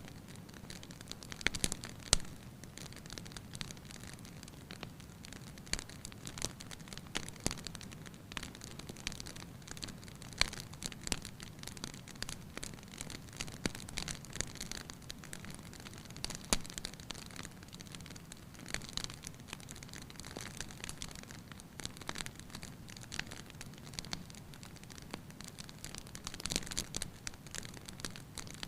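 Wood fire crackling in a fireplace: irregular snaps and pops, a few sharper ones, over a steady low rush.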